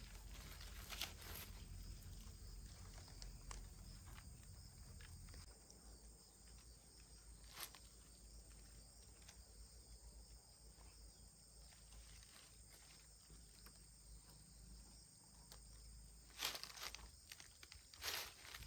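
Near silence: quiet outdoor background with a low rumble in the first few seconds, then a few faint scattered clicks and two sharper knocks near the end.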